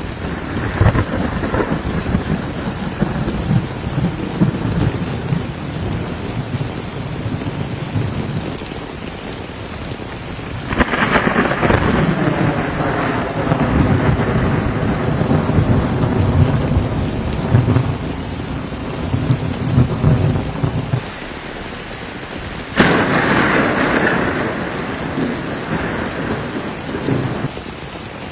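Heavy rain falling steadily through a thunderstorm. Thunder cracks suddenly about eleven seconds in and again about twenty-three seconds in, each time rolling on for several seconds before fading back into the rain.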